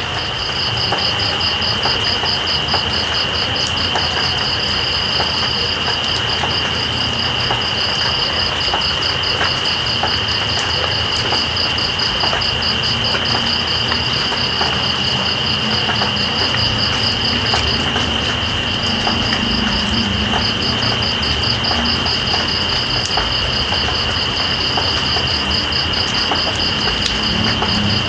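Night insects, crickets, trilling steadily over continuous rain, one with a steady high trill and another with a fast pulsing chirp that breaks off briefly about two-thirds through, with scattered drips ticking in the rain.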